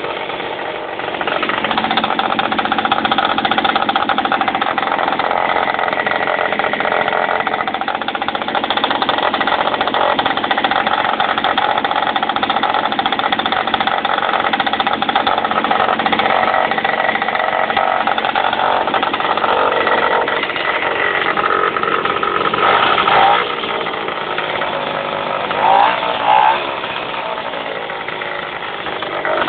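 Verkhovina-6 moped's small two-stroke engine running steadily, with a whistle from the ignition side of the engine. It briefly gets louder twice near the end.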